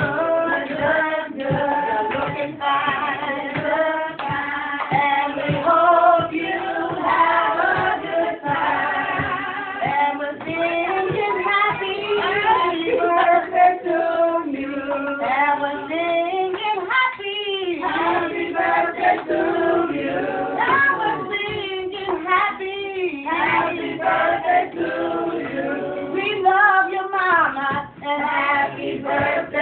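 Continuous singing, with music.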